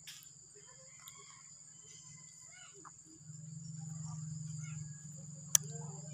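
A steady, high-pitched chorus of insects. A low hum grows louder about three seconds in, and a single sharp click near the end is the loudest sound.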